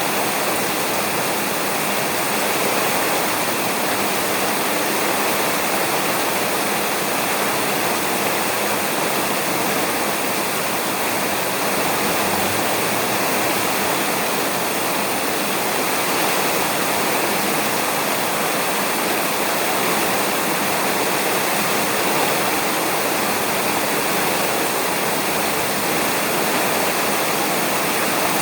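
Steady, even rain falling on a roof, a constant hiss with no break or change.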